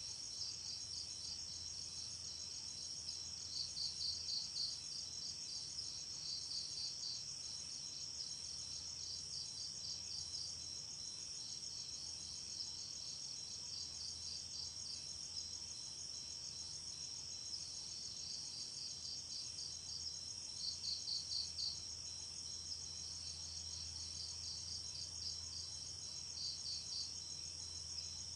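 Night insects, mainly crickets: a steady high-pitched trill, with short runs of louder pulsed chirps every few seconds. A faint low hum sits underneath.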